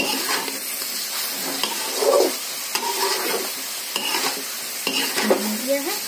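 Brinjal and masala frying in a pan while a spatula stirs it: a steady sizzle with repeated scraping strokes of the spatula through the vegetables.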